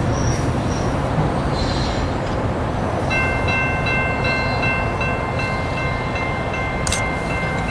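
Passenger train rolling past a grade crossing, a steady rumble. About three seconds in, a steady ringing tone of several pitches sets in over it.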